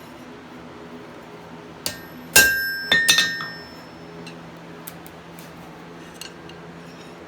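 A quick cluster of sharp metallic clinks about two to three seconds in, the loudest leaving a clear bell-like ring that dies away within a second: a hardened steel anvil devil knocking against metal.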